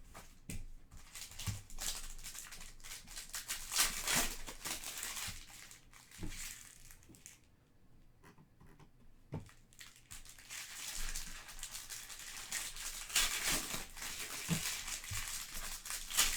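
Foil trading-card pack wrappers crinkling and tearing as packs are ripped open and handled, in irregular bursts with a quieter stretch in the middle.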